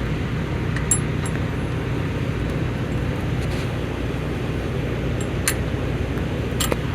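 Steady low rumble of idling diesel engines, with a few sharp metallic clinks about a second in, midway through the fifth second and near the end.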